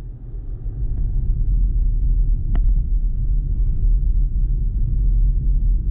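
Steady low road-and-tyre rumble of a moving BMW i4 M50, an electric car with no engine note, with a single sharp click about halfway through.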